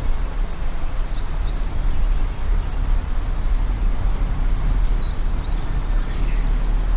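A songbird singing two short phrases of quick, high chirps, about a second in and again about five seconds in, over a steady, loud background noise.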